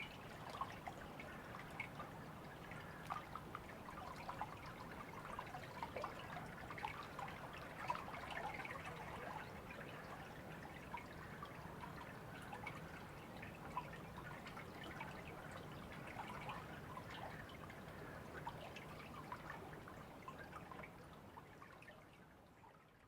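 Small stream trickling and babbling, with many small irregular drips and splashes of water over a low steady rush; it fades out near the end.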